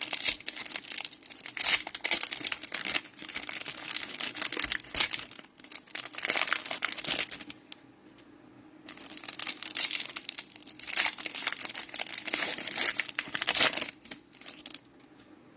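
Cellophane wrapper of a football card cello pack being torn open and crinkled by hand. The crackling comes in two spells, with a brief lull about eight seconds in, and dies away near the end.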